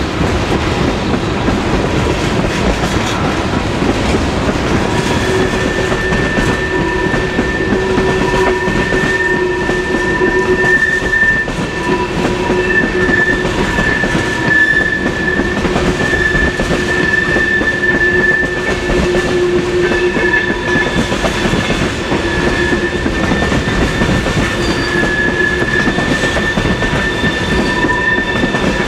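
Norfolk Southern train rolling through a sharp curve, its wheels running loudly over the rails. About five seconds in, a steady high-pitched wheel squeal sets in and holds, from the wheel flanges grinding against the rail on the tight curve.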